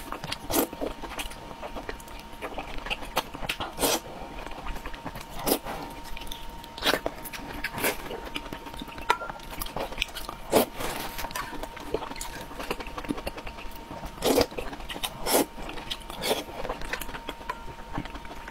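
Close-up eating sounds: irregular wet smacks, bites and chewing on soft, rubbery food from a spicy soup, with a faint steady high tone underneath.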